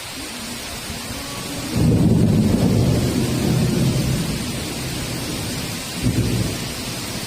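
Heavy rain falling steadily, with a loud clap of thunder about two seconds in that rumbles on for several seconds, and a second, shorter rumble near the end.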